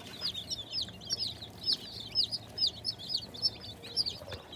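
A brooder of baby chicks peeping: many short, high cheeps overlapping, several a second, with a faint steady low hum underneath.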